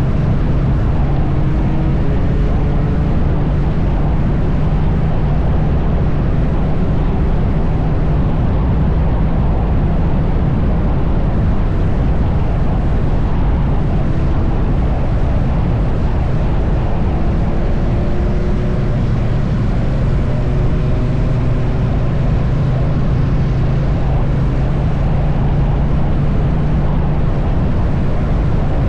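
Triumph Bonneville T100 parallel-twin engine running steadily at cruising speed, with heavy wind and road noise over it.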